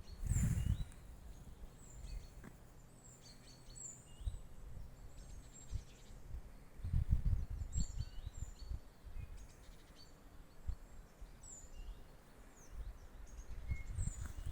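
Small birds calling with many short, high chirps and quick down-slurred notes scattered throughout, over irregular low rumbling bursts.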